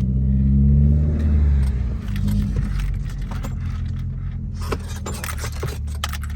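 Straight-piped exhaust of a 2016 Ford Focus, with muffler and resonator removed, running with a low steady drone. It is louder for the first two seconds, then settles. Near the end comes a quick run of light clicks and rattles.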